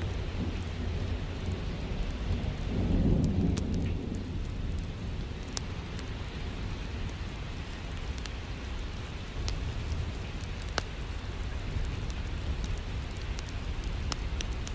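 Steady rain with a low roll of thunder swelling about two to four seconds in, and scattered sharp crackles and pops from a wood fire in a fireplace.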